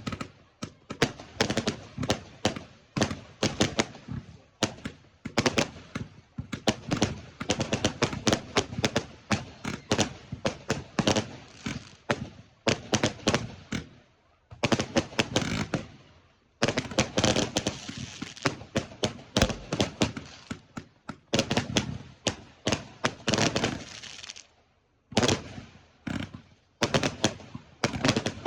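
Fireworks going off in rapid succession: a dense run of sharp bangs and crackles, many a second, with brief lulls about halfway through and again near the end.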